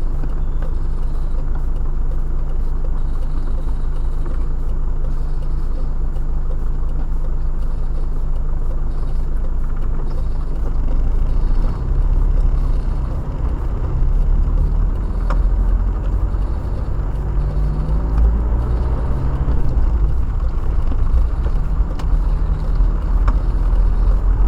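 Car engine and road noise heard from inside the moving car, a steady low rumble. In the second half the engine note rises several times as the car accelerates.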